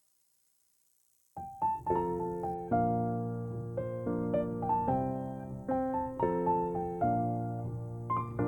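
Background piano music: near silence, then about a second and a half in a piano begins playing chords and a melody of struck notes.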